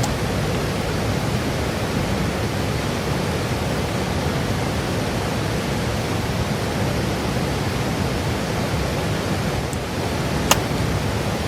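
Steady rushing noise, like flowing water or wind. A little before the end comes a single sharp click, fitting a fire piston's plunger being struck to light char cloth.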